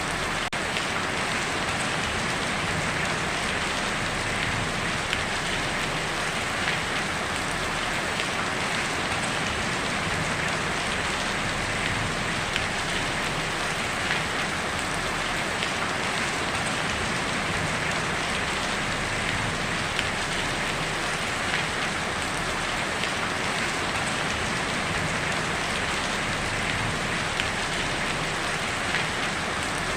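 Heavy rain falling on a tin roof: a steady, dense patter of many small drop ticks.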